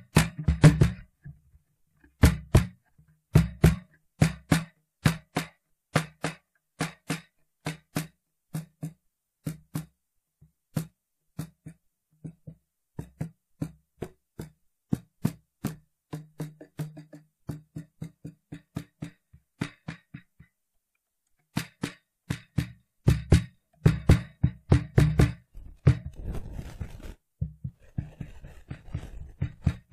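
Cajon played by hand in a steady rhythm of deep bass strokes and sharp slaps, with a short break just after the middle. Near the end there is a softer, hissy rubbing stretch between the strokes.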